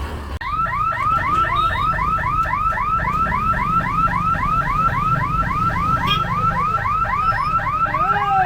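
Electronic warning alarm sounding a rapid, evenly repeated rising chirp, about four or five a second, over a steady low rumble.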